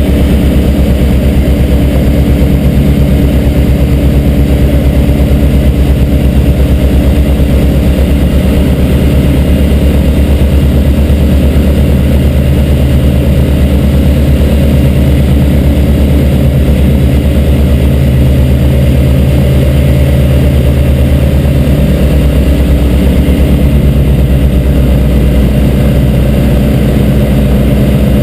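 Light aircraft's piston engine and propeller running steadily in flight, a loud continuous drone whose pitch shifts slightly about twenty-two seconds in.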